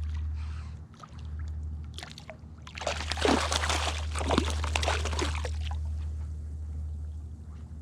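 Water splashing and sloshing for a few seconds near the middle, over a steady low rumble.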